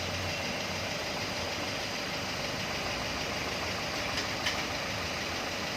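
Volkswagen Vento TDI diesel engine idling steadily, with two light clicks about four seconds in.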